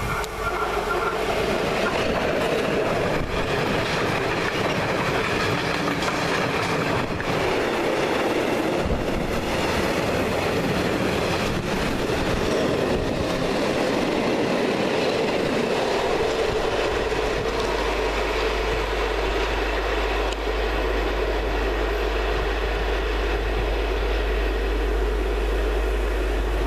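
Freight train hauled by an electric locomotive passing close by: a long, steady rumble of wagons rolling past, with the wheels clattering over the rail joints.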